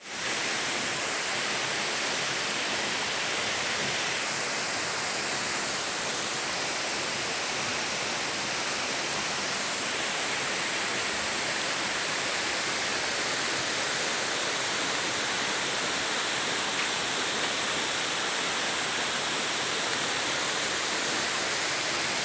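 Steady rush of a waterfall about 20 m high, water falling and splashing without a break.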